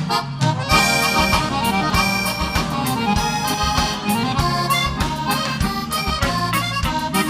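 Live gaúcho dance music: an accordion plays an instrumental passage between sung verses, over a steady bass-and-drum beat.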